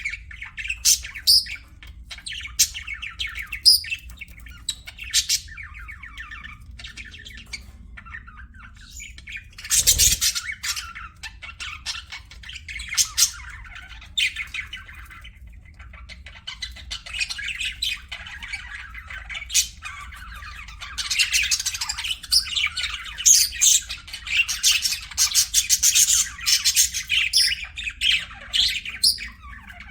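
Pet budgerigars chirping and chattering in quick, squawky bursts, growing busier and louder in the last third. A single brief thump about a third of the way in.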